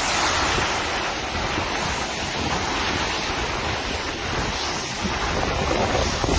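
Tropical-storm wind blowing over the microphone, with surf breaking: a steady, loud rushing noise with a rumbling low end.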